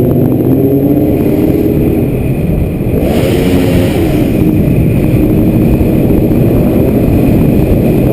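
Loud car engine revving, its pitch climbing and falling several times. A brief rush of noise comes about three seconds in.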